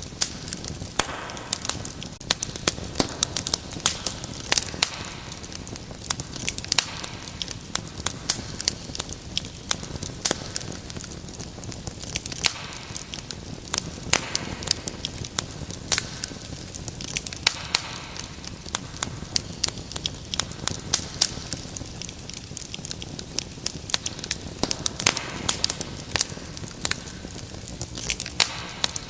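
Wood fire crackling in a fireplace: frequent irregular pops and snaps over a soft steady hiss.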